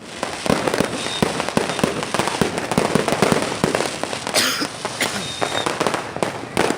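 Fireworks and firecrackers going off in rapid, overlapping succession: a dense, irregular crackle of sharp bangs, with a brief hiss a little past the middle.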